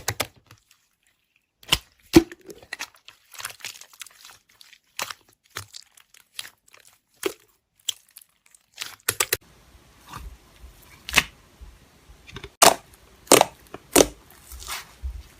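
Close handling sounds: irregular clicks and taps with short crinkling and rustling, like packaging or paper being handled. About two-thirds of the way through, a steady background hiss comes in under the clicks.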